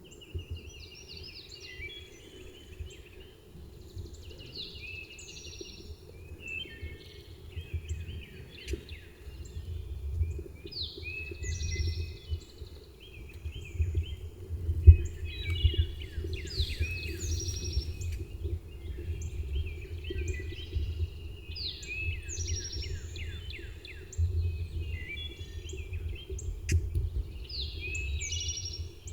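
Several songbirds singing in overlapping, repeated short phrases over a low rumble, with one sharp thump about halfway through.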